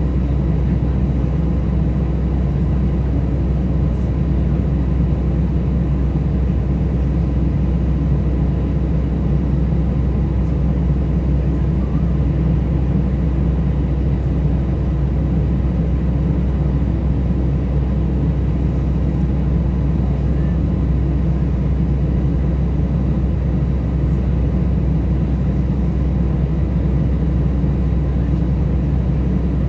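Steady cabin rumble inside an Airbus A320 with its engines running, with a faint steady whine over it and no change in level.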